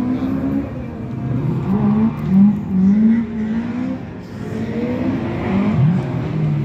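Drift car engines revving hard, the pitch climbing in several quick steps as if shifting up through the gears, then dropping off the throttle, with another sharp rev near the end.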